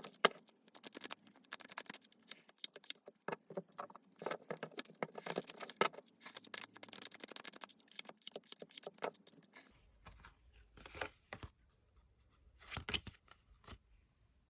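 Tarot cards being shuffled by hand: rapid, dense papery flicks and slides. About ten seconds in, the shuffling thins out to a couple of short bursts.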